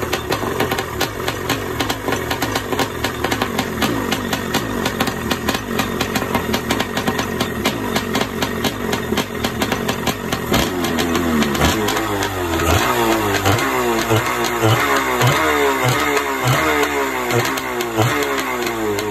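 Kawasaki 650 X2 two-stroke 650cc engine running on test. It runs evenly at first; about halfway through it starts being revved in quick repeated blips, roughly one and a half a second.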